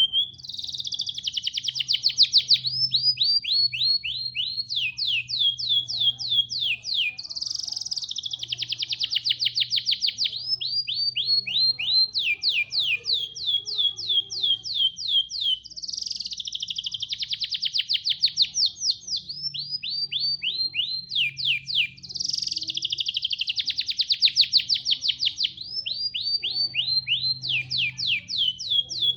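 A caged songbird singing loudly in repeated phrases, each a harsh buzzy burst followed by rapid runs of sharp, falling notes, the phrase coming round about every seven seconds. A steady low hum lies beneath.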